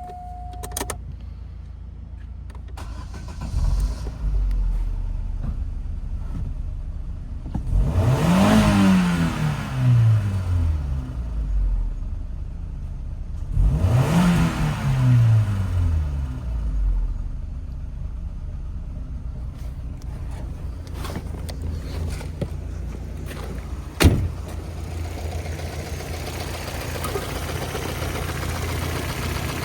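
Opel Z16XEP 1.6-litre four-cylinder petrol engine catching a few seconds in and idling, revved up and let fall back twice. A single sharp knock comes near the end.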